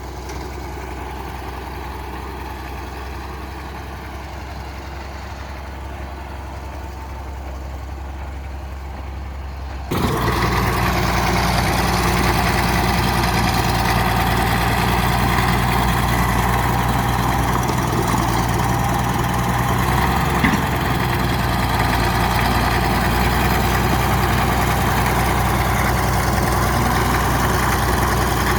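Bulldozer's diesel engine running steadily with a deep low hum. About ten seconds in the sound jumps suddenly louder and fuller, then stays at that level.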